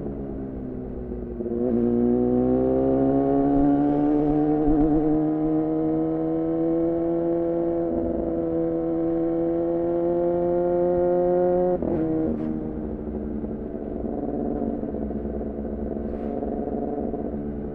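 2014 Yamaha R6 inline-four sport bike engine breathing through an R9 titanium muffler and Leovince header. It slows off the throttle at first. At about a second and a half it comes back on the throttle and pulls, its pitch climbing gradually for about ten seconds. The throttle then shuts sharply, and it settles into steady, lower cruising.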